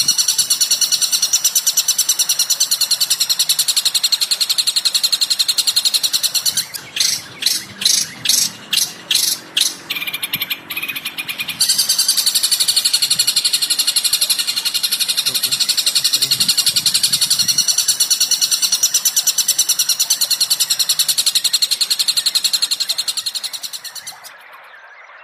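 Recorded songbird chatter: a dense, very rapid, high-pitched trill. Partway through it breaks into a run of about nine separate sharp calls, then the fast chatter resumes and fades out near the end.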